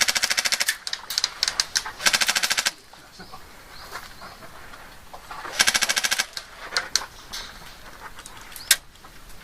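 Airsoft electric guns firing: three short rapid full-auto bursts of about half a second each, with single shots in between.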